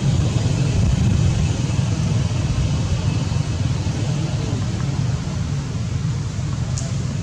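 Steady low rumble, with one brief sharp click near the end.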